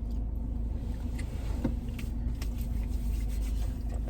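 Steady low rumble and hum of a car's running engine heard inside the cabin, with a few faint clicks and rustles.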